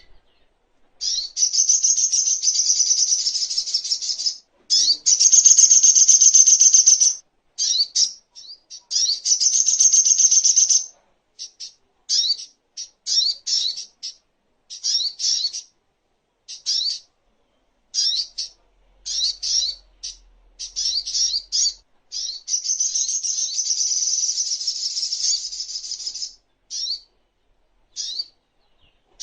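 Sogok ontong (little spiderhunter) singing: high, very fast chattering trills a few seconds long, alternating with runs of short, sharp chirped notes with brief gaps between them.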